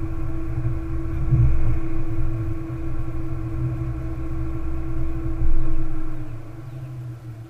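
2014 Ford Mustang's 3.7-litre V6 idling while parked: a steady low rumble with a constant hum, swelling louder briefly twice and fading lower near the end.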